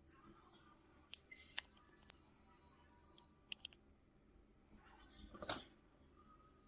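Small sharp clicks and taps of tools and parts being handled during a phone repair, a few single ones, then three in quick succession, and the loudest near the end.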